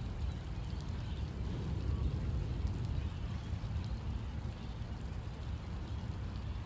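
Steady summer rain, heard mostly as a low, even rumble with a faint patter of drops above it.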